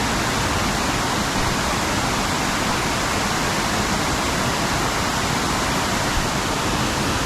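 River water rushing, a steady, even sound of flowing water with no pauses.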